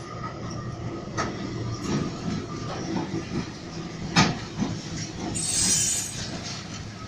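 VL11M two-section electric locomotive and its freight wagons rolling past close by, wheels clattering over the rail joints. There is a sharp knock about four seconds in and a brief high hiss in the second half.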